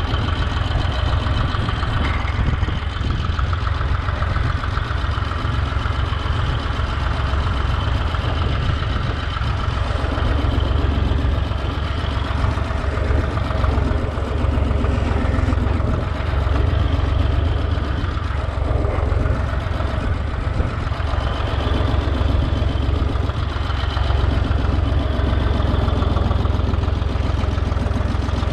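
Diesel engine of a Holder A45 vineyard tractor running steadily with a deep, even drone.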